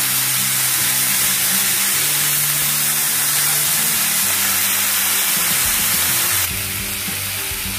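Fenugreek leaves and green peas frying in oil in a pan on medium heat: a steady sizzling hiss that turns a little quieter about six and a half seconds in.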